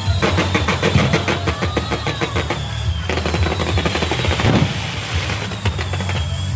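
Fireworks going off in a fast, dense crackle like a long string of firecrackers, with high whistles that glide down in pitch a few times.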